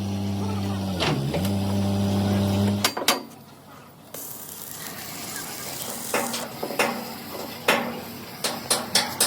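A steady machine hum that dips briefly and cuts off about three seconds in. After a short lull comes a series of sharp metal knocks, like a hammer striking steel plate, coming faster near the end.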